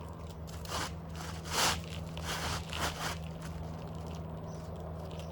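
A few short scraping, rustling sounds of an asphalt shingle being handled and slid into place on a roof, the loudest about a second and a half in, over a steady low hum.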